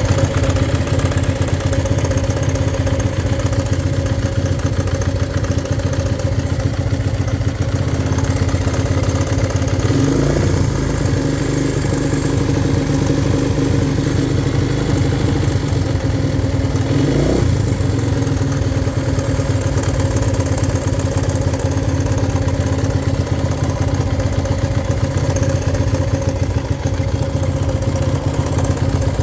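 1971 Honda CL100's single-cylinder four-stroke engine idling steadily, with two brief blips of the throttle, about ten and seventeen seconds in, where the pitch rises and falls back.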